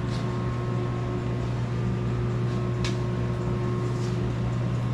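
A steady machine hum with a faint whine, with two light ticks, about a tenth of a second and about three seconds in.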